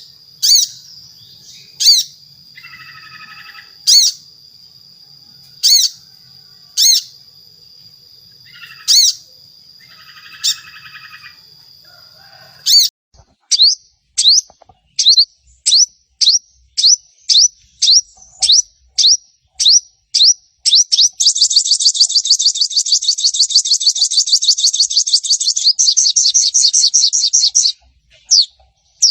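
Olive-backed sunbird (sogon) singing: sharp single high notes every second or two over a steady high whine, then a run of quick sweeping notes that speeds up, then a long fast chattering trill that stops shortly before the end.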